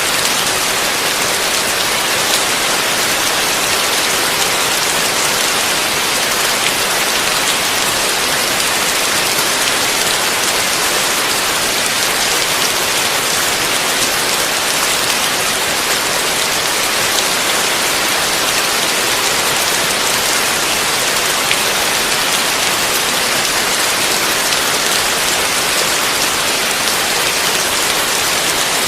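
Heavy rain falling steadily: a dense, even hiss of countless drops that holds at the same level throughout.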